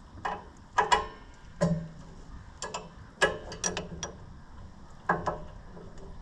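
Hand tools on engine hardware: sharp metallic clinks and ratchet clicks in irregular clusters, about nine in all, from a socket wrench working on rusty nuts and bolts.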